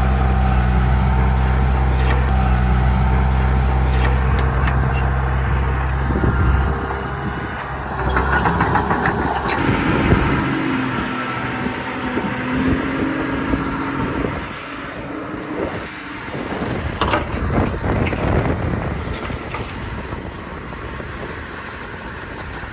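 Diesel engine of heavy earthmoving machinery running steadily close by. About six or seven seconds in its low, even note gives way to a rougher sound with clanks and rattles.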